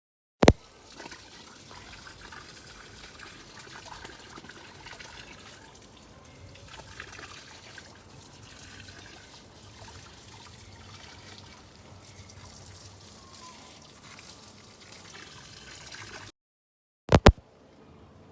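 Faint steady trickling of water, with a sharp click just after the start and two sharp clicks close together near the end.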